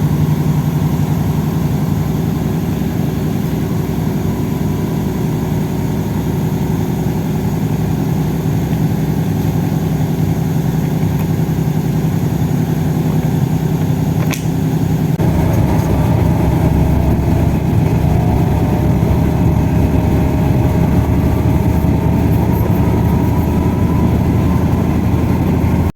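A vehicle engine running steadily. About halfway through the low rumble gets louder and a faint rising whine comes in.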